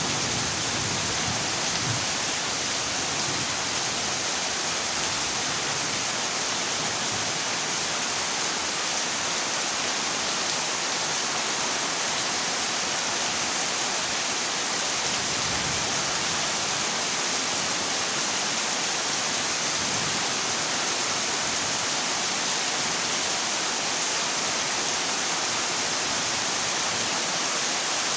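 Heavy rain falling on a corrugated zinc roof, a steady even hiss with no let-up.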